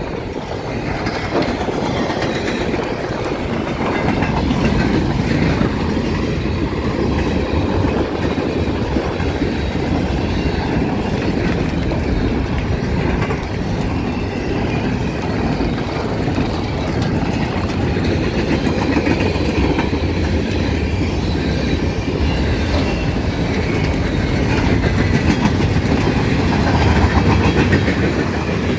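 Freight cars rolling past close by: steady rumble and clatter of steel wheels over the rails, a little louder near the end.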